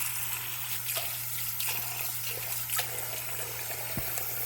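Water running steadily from a faucet into a sink basin, filling it to test the newly reassembled drain, with a few faint clicks.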